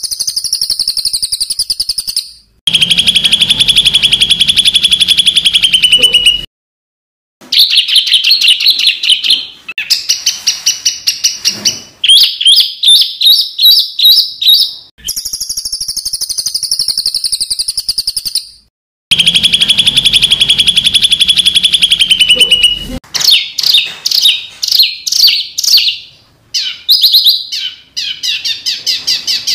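Edited songbird tutoring recording of harsh, rapid-fire calls ('tembakan kasar'): fast trills and quick runs of repeated notes, spliced together with abrupt cuts to silence. The same sequence of phrases comes round again about halfway through, as a loop.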